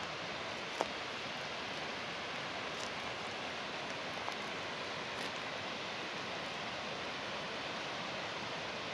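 Steady rush of flowing water, with a few faint brief clicks.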